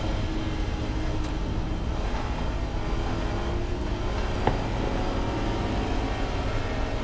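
Race car's engine running at a steady, fairly constant pitch at speed, heard from inside the stripped, roll-caged cabin along with road noise. A single short click comes about four and a half seconds in.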